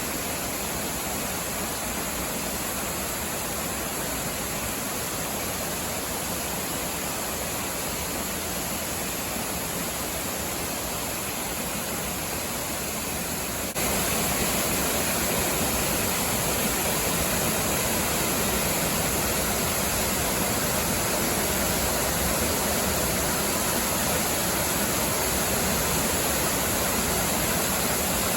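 Waterfall: water falling and splashing in a steady rush. About halfway through it suddenly gets louder and stays louder.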